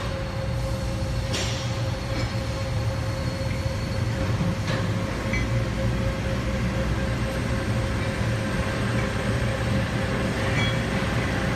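Industrial machinery running steadily, with a low hum, a constant whine and a few faint clicks.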